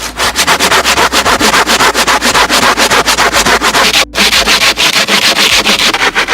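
Hand saw cutting wood in fast, even back-and-forth strokes, about seven rasping strokes a second, with a brief stop about four seconds in.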